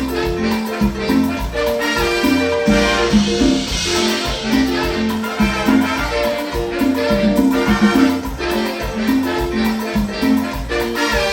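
Latin dance orchestra playing live: an instrumental break between sung verses, with a steady dance rhythm and no singing.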